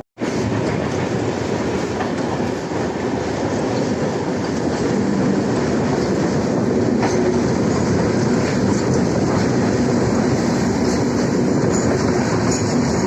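Electric suburban local train running along the track: a steady rumble of wheels on rails with light clickety-clack over the rail joints and a few faint squeaks later on.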